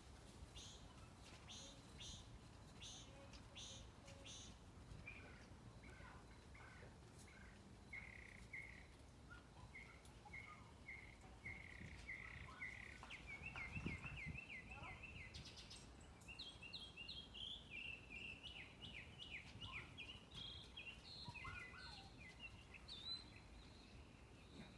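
Songbirds singing faintly over low background noise. Short chirping notes repeat in quick series and speed into rapid runs around the middle and again later.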